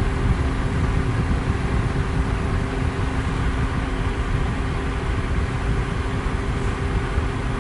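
Electric fan running at high speed: a steady, even rush of air with a low rumble and a faint motor hum, unchanging throughout.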